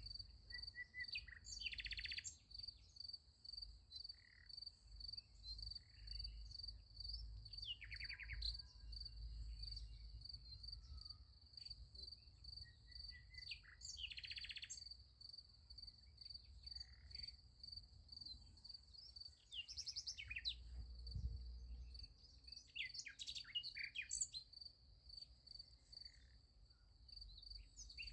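Field crickets chirping in a steady, evenly pulsing high trill, with short bird calls and chirps breaking in every few seconds.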